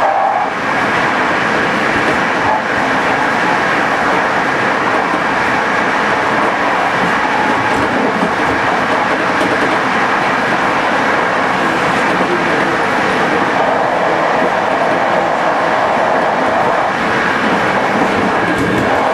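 Locomotive-hauled passenger train running at speed: a loud, steady rolling noise of wheels on rail, with a faint steady high whine.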